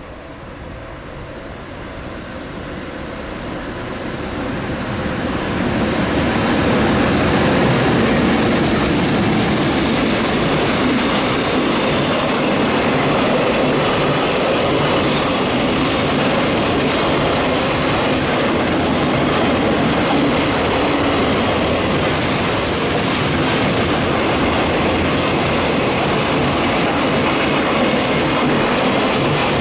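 Container freight train hauled by an EH500 electric locomotive passing close by. The sound grows louder over the first six seconds as the train arrives, then the container wagons roll past in a loud, steady run of wheel noise with faint repeated clicks.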